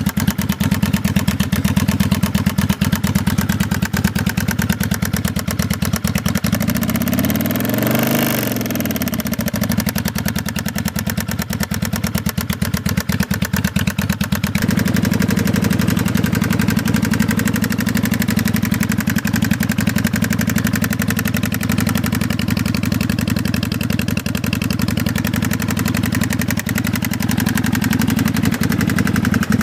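1995 Kawasaki Vulcan 750's V-twin engine idling with a persistent knocking noise, blipped once about seven seconds in and settling back to idle. The noise remains even with new manual cam chain tensioners, and its cause is unknown to the owner.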